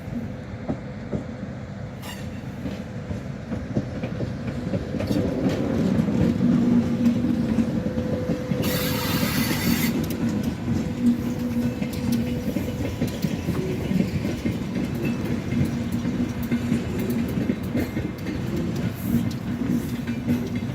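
EFE train unit UTS610 running by on the rails, its wheels rumbling and clicking over the track, growing louder over the first several seconds, with a brief hiss about nine seconds in.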